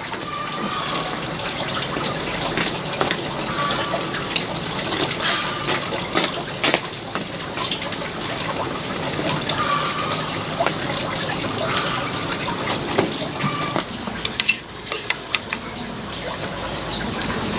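Water running steadily, like a tap, with scattered light clinks and knocks.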